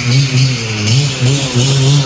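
An engine revving up and down, its pitch rising and briefly dipping several times.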